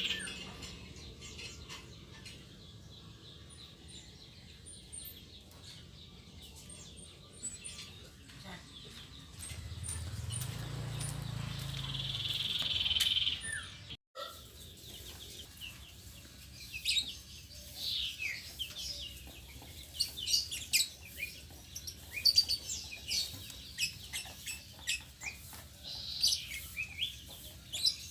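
Small caged birds chirping: short, high chirps in quick, irregular succession, thickest in the second half. Near the middle there is a brief swell of hiss and low rumble.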